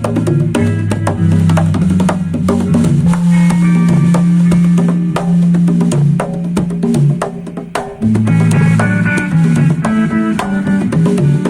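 A band playing: a drum kit keeping time under held low bass notes and a higher melodic line. The music thins out briefly about seven seconds in, then a loud drum hit brings it back in full.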